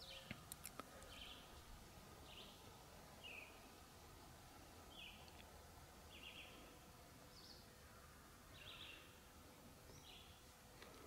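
Faint bird calls: short, high notes repeated roughly once a second over a quiet outdoor background, with a few sharp clicks in the first second.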